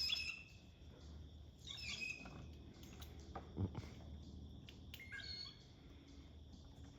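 Blue jays calling: three short calls, one at the very start, one about two seconds in and one about five seconds in. A soft low thump comes between the second and third calls.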